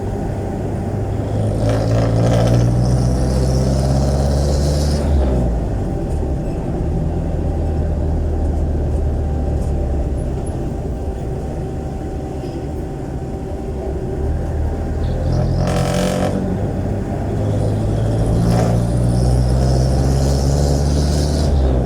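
Jeepney's Isuzu 4BC1 four-cylinder diesel engine running through a very loud, free-flowing muffler. It revs up hard about a second in, eases off around five seconds, holds steady, then climbs again from about fifteen seconds on as the jeepney accelerates.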